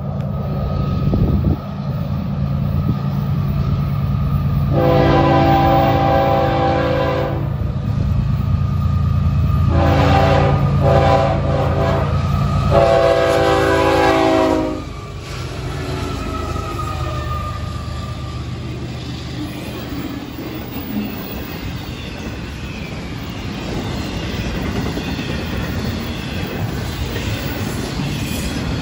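Florida East Coast Railway GE ES44C4 diesel locomotives approach and pass with their engines running. Their air horn sounds several blasts, long ones with a shorter broken one between, from about 5 to 15 seconds in. Once the locomotives are by, the intermodal cars roll past with a steady rumble and wheel clatter on the rails.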